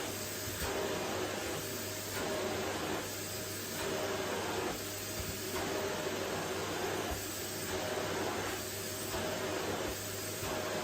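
Vacuum cleaner running on a wooden floor: a steady motor whine over rushing air, the air noise swelling and dipping about every one and a half to two seconds.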